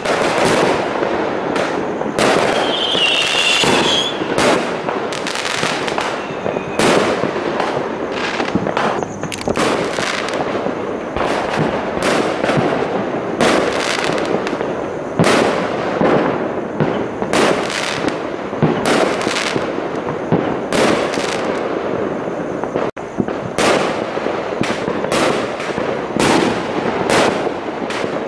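Many private consumer fireworks going off at once, a dense run of overlapping bangs and crackles, several a second, with no let-up. A brief high whistle sounds about three seconds in.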